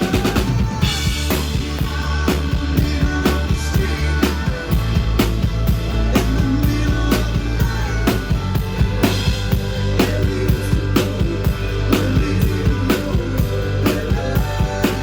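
Live rock band music played loud with a steady drum-kit beat, kick and snare over a held bass line and other pitched instruments, with no singing.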